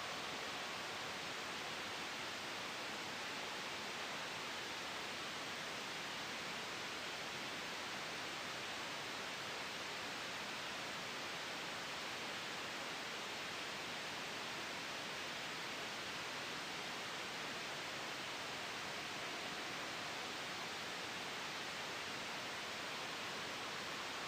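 Steady, even hiss of sleep white noise blended with a soft wind ambience, with no changes.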